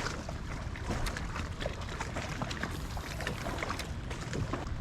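Water lapping and splashing against a small plastic kayak's hull in many small irregular splashes and drips, over a steady low rumble.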